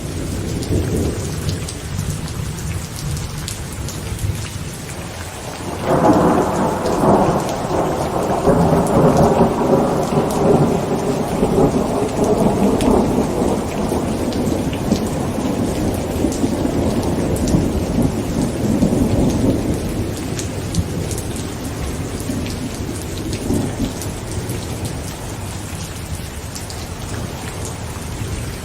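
Heavy rain drumming steadily on a tent. About six seconds in, a loud rumble of thunder breaks in and rolls on for over ten seconds, slowly fading, with a weaker rumble later.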